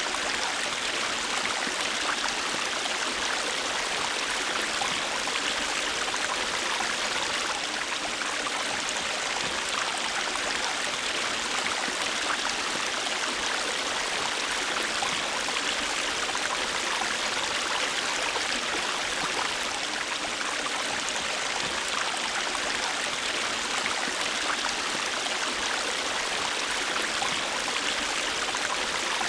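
River water running over rocks: a steady rushing with fine splashing and gurgling, even throughout.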